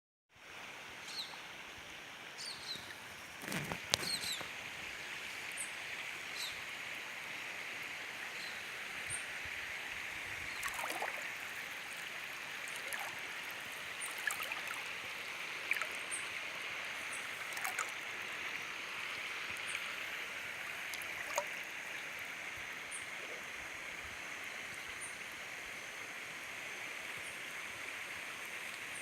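Saibadela river's flowing water rushing steadily, with short high chirps scattered over it and a sharp knock about four seconds in.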